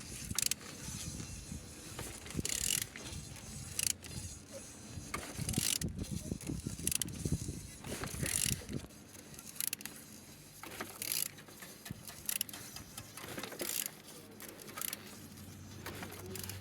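Removed engine being turned over by hand: irregular mechanical clicks and clatter as the crankshaft is rotated, turning freely.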